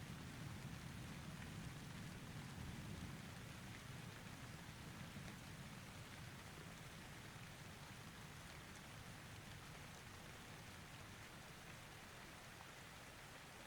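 Faint steady rain falling, with the low rumble of distant thunder dying away over the first few seconds.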